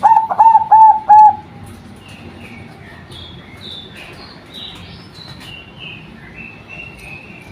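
Female zebra dove (perkutut) giving four short, loud coos in quick succession in the first second and a half. Fainter high chirps follow for the rest of the time.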